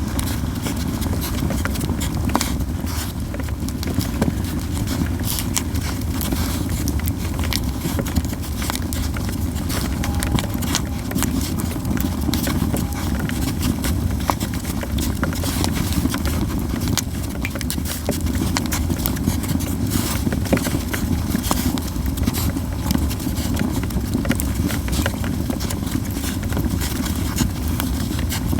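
Japanese yew wood burning in an open fire, crackling and popping in dense irregular snaps over a steady low rumble.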